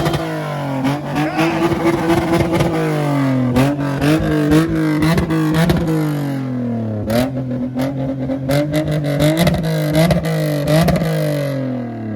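A car engine being revved, its pitch held and then falling back several times, with sharp crackling pops from the exhaust.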